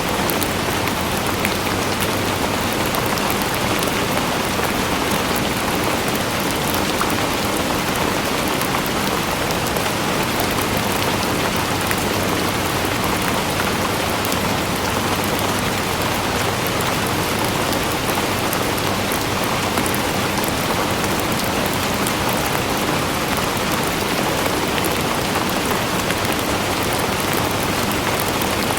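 Steady rain falling on a surface, a dense even patter of many drops with no let-up.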